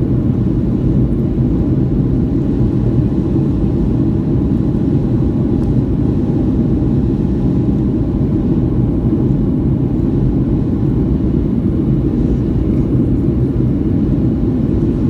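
Steady cabin noise inside a Boeing 757-200 in its climb after takeoff, flaps retracted: a constant low engine and airflow rumble with no changes.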